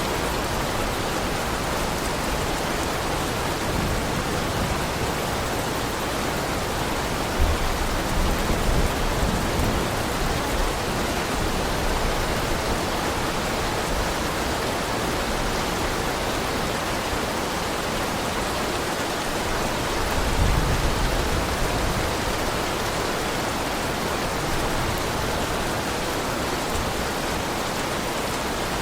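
Heavy rain falling steadily in a dense, even hiss, with two brief low rumbles swelling up, one about seven seconds in and one about twenty seconds in.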